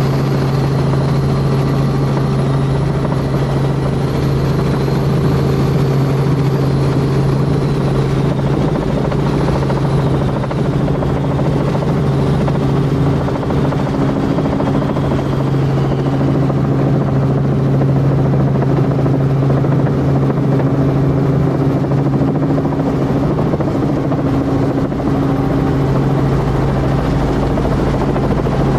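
Tour helicopter in flight: a loud, steady drone of rotor and engine, with a faint high whine above it that wavers in pitch and fades.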